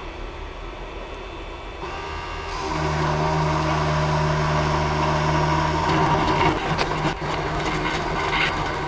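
Small CNC spindle motor on a Creality CP01 spinning up about two seconds in and running with a steady hum. Around six seconds the sound turns rough and scratchy with scattered clicks as the bit starts cutting the workpiece.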